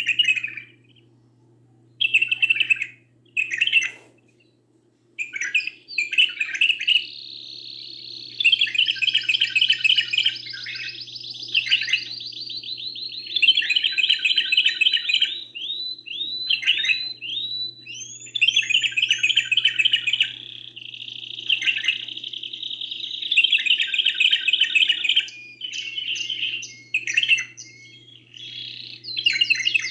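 Domestic canary singing: a few short separate song phrases in the first five seconds, then long runs of rapid rolling trills broken by quick rising whistled notes. A faint steady hum runs underneath.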